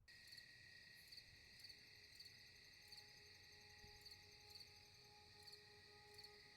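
Crickets chirping faintly, a steady high trill with short chirps repeating about every half second to a second.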